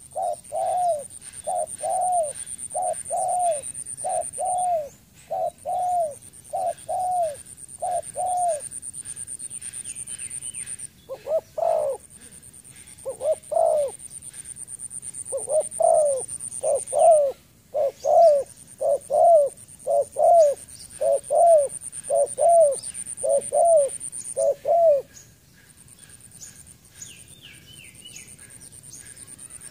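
Spotted dove calling: a fast series of short, repeated coo notes, about two a second, that pause briefly twice and stop about 25 seconds in. Faint chirps of small birds and a thin steady high whine run underneath.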